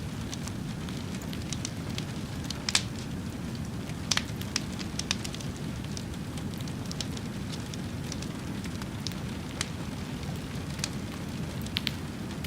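Wood fire burning with a steady low rush and scattered sharp crackles and pops, the loudest pops a little before 3 seconds and about 4 seconds in.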